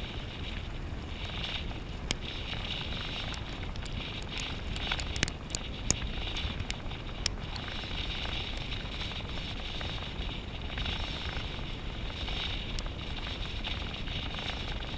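Steady wind buffeting on a helmet camera's microphone over the crackle of tyres on a rough, stony trail, with scattered sharp clicks and knocks from the bike rattling over rocks, a few louder ones about five to six seconds in.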